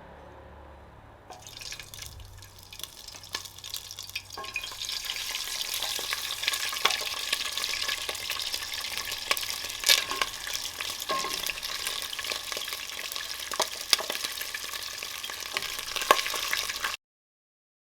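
Chicken pieces frying in hot maize oil: a sizzle that starts about a second in and grows louder over the next few seconds, with sharp pops and crackles of spattering oil throughout. It cuts off suddenly near the end.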